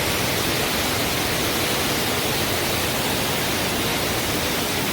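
Waterfall, the water rushing in a steady, even hiss.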